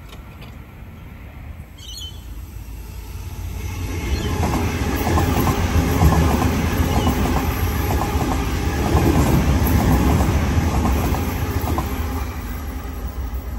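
Waratah electric multiple-unit train running past: its running noise builds over the first few seconds, and the wheels click over rail joints as the carriages go by. The sound then eases off as the train moves away.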